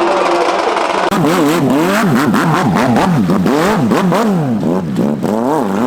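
Dirt bike engine revving hard, its pitch swinging up and down about two to three times a second as the throttle is worked on and off, with some clatter mixed in.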